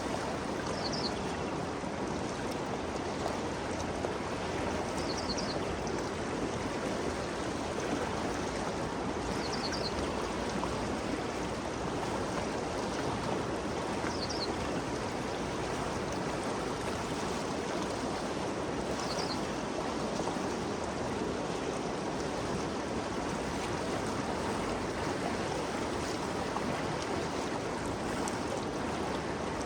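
Ganges River flowing: a steady rush of moving water. A faint, short, high chirp repeats five times, about every four to five seconds, over the first two thirds.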